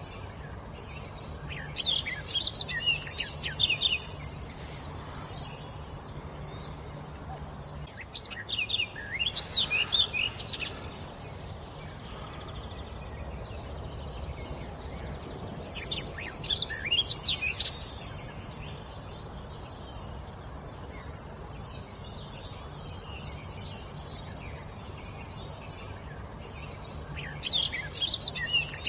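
A songbird singing four phrases of quick, varied high notes, each lasting two or three seconds and spaced several seconds apart, over a steady low background hiss.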